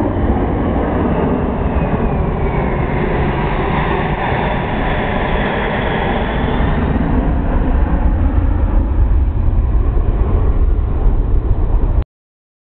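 Four F117 turbofan engines of a C-17 Globemaster III running loud, a deep rumble under a high turbine whine that slowly falls in pitch. The sound cuts off abruptly near the end.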